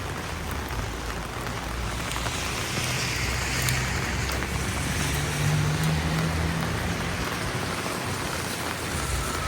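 Steady rain falling on a street, with a low rumble and a swelling hiss of a vehicle passing on the wet road around the middle.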